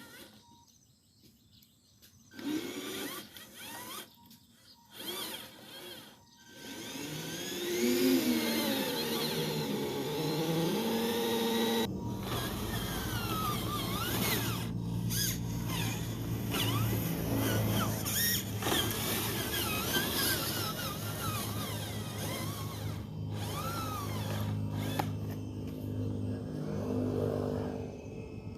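Electric drive motor and gearbox of a 6x6 RC truck whining. After a few quiet seconds of short mechanical sounds, the pitch rises and falls as the truck speeds up and slows, then settles into a steadier hum about halfway through.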